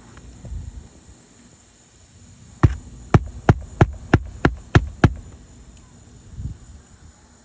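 Hammer driving a nail into an old, brittle asphalt roof shingle: eight sharp strikes in quick succession, about three a second, starting a couple of seconds in.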